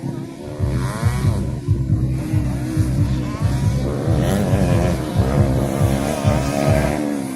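Several motocross bike engines revving, their pitch rising and falling and overlapping, over a low, evenly pulsing thump.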